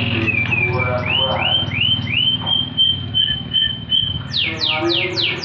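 A songbird whistling a run of repeated notes, first short rising whistles, then about a second before the end a quick series of falling whistles, over background music.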